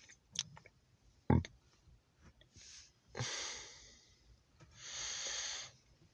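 Close breathing right at the microphone: two long breaths about a second apart, after a few light knocks and clicks of handling noise. No locomotive is clearly heard.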